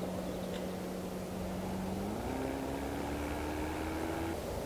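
Mercedes-AMG SL 63's 4.0-litre twin-turbo V8 running at a steady engine note. About two seconds in the revs jump up, then climb steadily under acceleration. The engine sound stops shortly before the end.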